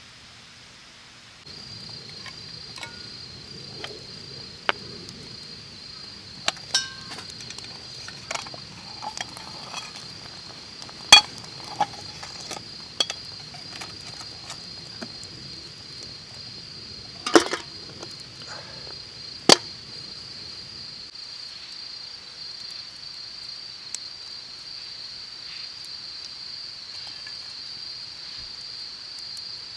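A steady high-pitched insect chorus, with scattered clinks of metal cookware and utensils, a few of them sharper in the middle.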